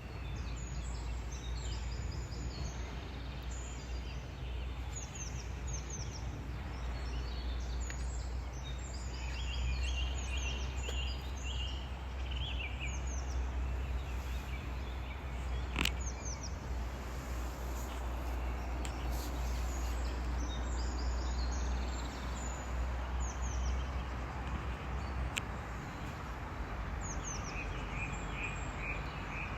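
Birds chirping in short falling calls over a steady low rumble that stops about 25 seconds in, with a single sharp click near the middle.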